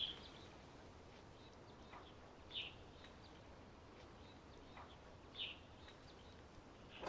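Quiet outdoor ambience with a few faint, short bird chirps spaced a few seconds apart.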